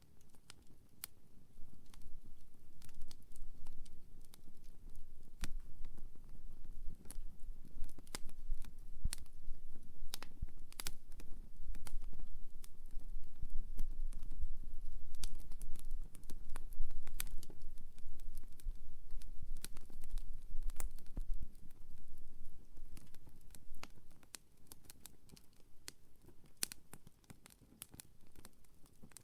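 Wood fire burning, crackling with many irregular sharp pops and snaps over a low rumble that swells about a second in and dies down near the end.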